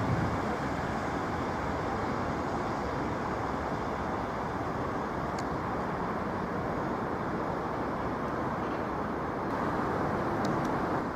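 Steady vehicle running noise, an even rumble and hiss with no clear engine note, with a couple of faint clicks midway and near the end.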